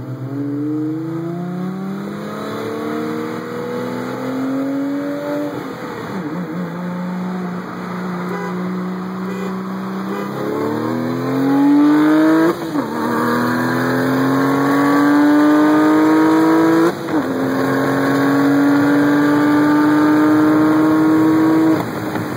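Car engine pulling hard under full throttle, its pitch climbing steadily and dropping sharply at each gear change, three times, then falling away near the end as the throttle is lifted. This is a wide-open-throttle run from a 40 mph roll.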